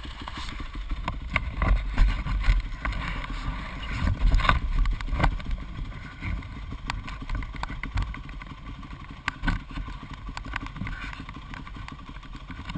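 Dirt bike engine running, heard as a steady low rumble with many scattered knocks and clicks.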